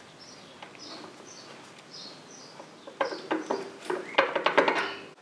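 Faint, repeated high bird chirps, followed by a cluster of sharp clicks and knocks about three seconds in, the loudest sound here.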